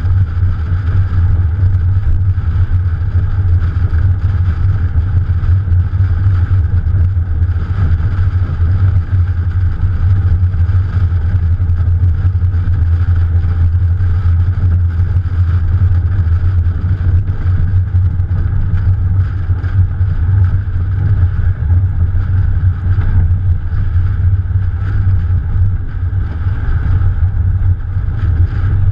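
Morgan Plus 4 with its liquid-cooled Ford 2.0 litre engine driving at a steady pace, heard from a camera on the bonnet. A loud, steady low rumble of wind on the microphone dominates, with engine and road noise underneath and no clear revving.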